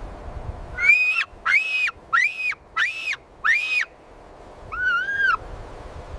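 An animal calling: five short, high-pitched, whistle-like calls in an even series, then after a pause one lower call.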